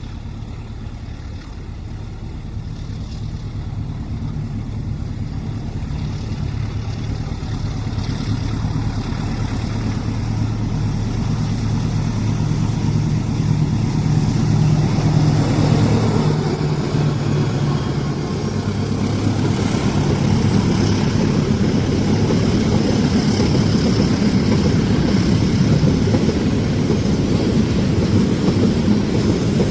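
Diesel-hauled train approaching: a steady engine drone grows louder, and from about halfway the rumble of wheels on the rails builds and stays loud as the train comes past.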